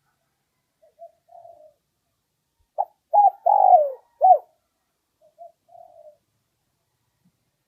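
Spotted dove cooing: a loud phrase of four low coos, one with a falling slide, in the middle, with softer short coo phrases before and after it.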